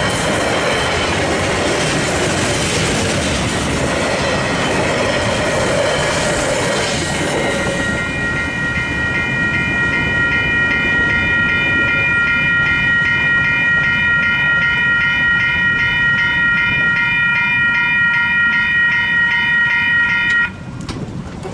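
Freight train of container wagons rolling over the crossing, wheels clattering on the rails, dying away about a third of the way in. Then the crossing's Western Cullen Hayes electronic bells ring on alone in a fast, steady repeating chime. They cut off suddenly near the end as the barrier arms begin to lift.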